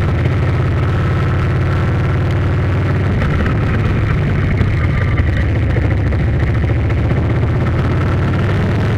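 A steady, loud low engine drone that runs evenly with no change in pitch or level.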